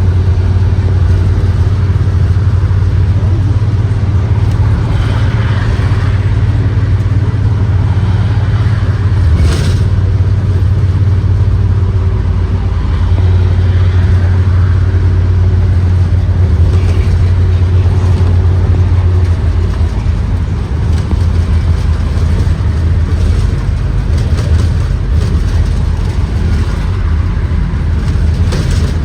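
Ford 7.3L V8 gasoline engine of a Blue Bird Vision school bus running under way, heard from inside the bus as a loud, steady low drone with road noise, easing off about twenty seconds in. One sharp knock comes about nine seconds in.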